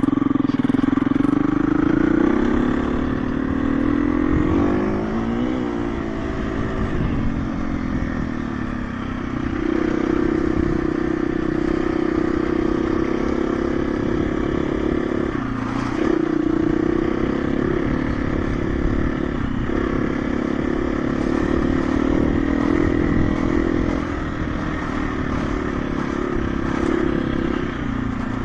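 KTM 350 EXC-F's single-cylinder four-stroke dirt bike engine running under way at a mostly steady pitch. The revs waver up and down about four to six seconds in and drop briefly twice, around sixteen and twenty seconds in.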